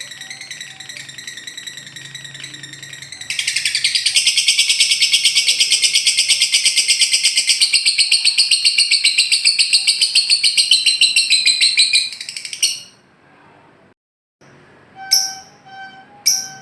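Lovebird ngekek: a long, very fast chattering trill of high-pitched notes. It grows suddenly loud about three seconds in, runs for roughly nine seconds and then breaks off. A few sharp single chirps follow near the end.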